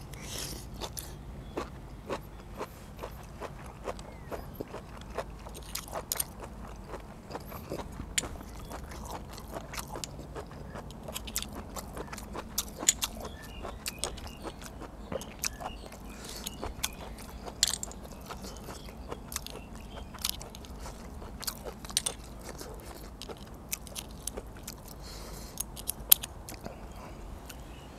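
Close-miked chewing and crunching of blanched blood cockles, with many sharp clicks scattered throughout. About 26 seconds in, a metal spoon clicks and scrapes against a cockle shell as it is pried open.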